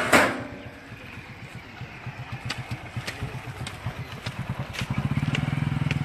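A small engine running with an even pulsing beat, growing louder after about five seconds. There is a sharp loud noise right at the start and a few light clicks.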